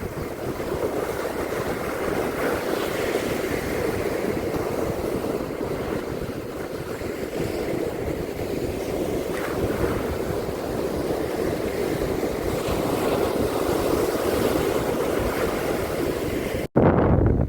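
Steady surf washing on a beach, with wind buffeting the microphone as a low rumble. Near the end the sound cuts out for an instant and comes back as a short, louder low rumble.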